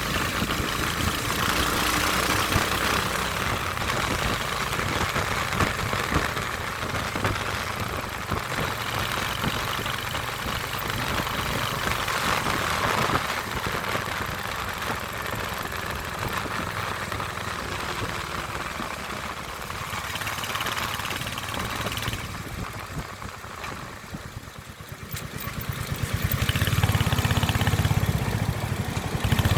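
Royal Enfield Hunter 350's single-cylinder engine running steadily, with a hiss over it. About 24 s in the sound fades briefly, then comes back louder and deeper near the end.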